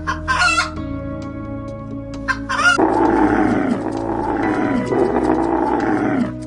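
A rooster clucks and gives two short calls, then about three seconds in a Bactrian camel takes over with a long, rough groan that dips in pitch several times, over soft background music.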